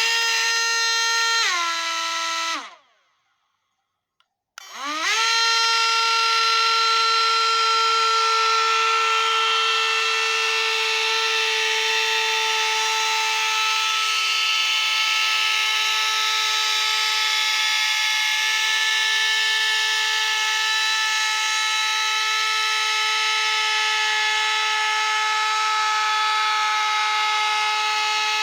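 Small electric motor of a homemade toy plane running with a steady high whine. It drops in pitch, winds down and stops about two seconds in. After a short silence it spins back up to speed and runs on steadily.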